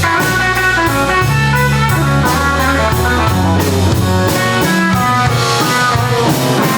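Electric blues band playing a slow blues, an electric guitar taking a lead fill with bending notes over bass and a steady drum beat, with no voice.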